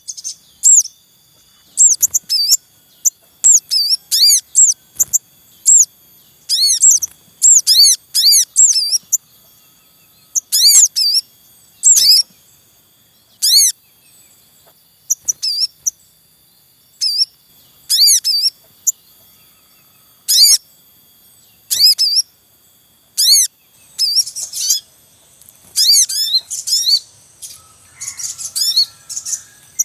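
Sogon birds calling: loud, sharp, high chirps in quick bursts of several notes, repeated every second or so and coming thicker near the end.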